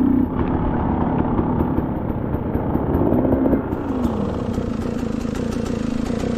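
Two-stroke dirt bike engine running under way, its pitch rising and falling with the throttle.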